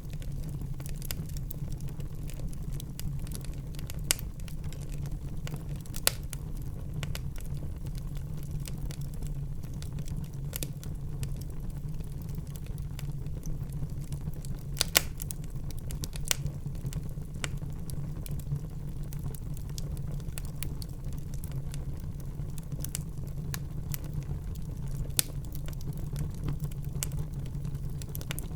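Wood fire burning in a fireplace: a steady low rumble of flame with frequent small crackles and a few sharper pops, the loudest about 15 seconds in.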